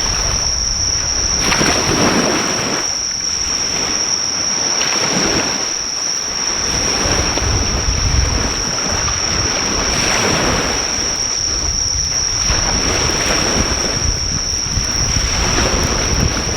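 Sea waves washing onto the shore, swelling and fading every few seconds, under a steady high-pitched trill of insects.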